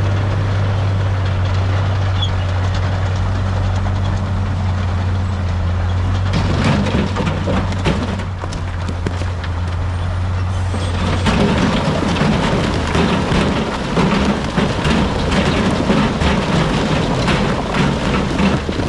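Heavy diesel engine of earthmoving machinery running with a steady low drone, joined about six seconds in by rock clattering and grinding, which grows louder and denser from about eleven seconds in as the engine note changes.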